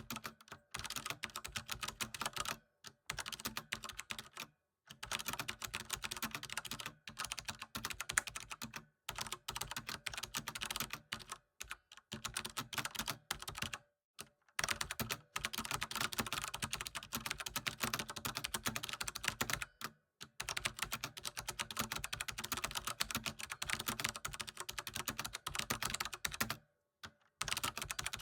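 Fast, continuous typing on a computer keyboard, a rapid run of key clicks broken by a few short pauses.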